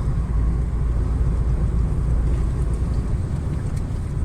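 Laden semi-truck driving: a steady low engine and road drone heard from the cab, slightly heavier in the first three seconds.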